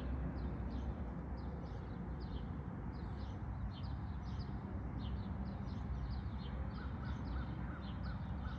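Birds calling: a quick, steady series of short high chirps, joined about two-thirds of the way in by a string of lower, evenly spaced calls, over a steady low rumble.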